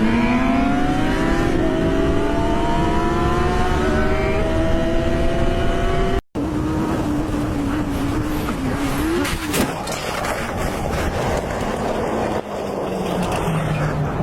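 Motorcycle engine accelerating hard, its pitch climbing steadily, with a gear change about four seconds in. After an abrupt cut a little past six seconds, an engine runs at a steadier pitch, then gives way to noisier riding sound with scattered knocks.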